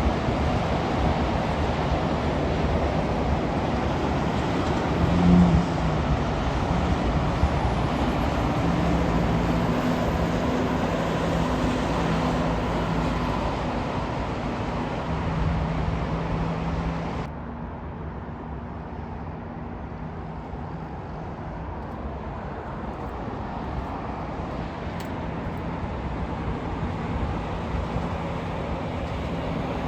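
Road traffic with heavy trucks driving past: diesel engine drone and tyre noise, with a brief louder swell about five seconds in. About two-thirds of the way through the sound drops abruptly to quieter, duller traffic noise.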